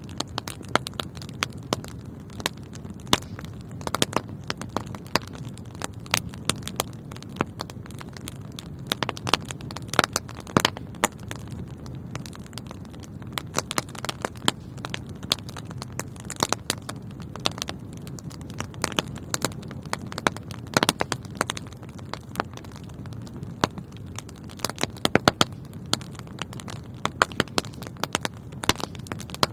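Wood fire burning in a fireplace: a steady low rush of flames under frequent sharp, irregular crackles and pops.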